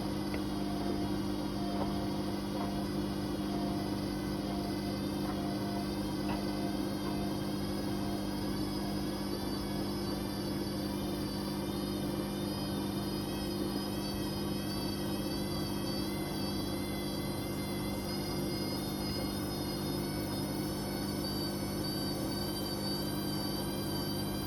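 Whirlpool Indiana 1400 washing machine running with a steady motor hum and a high whine that wavers slightly.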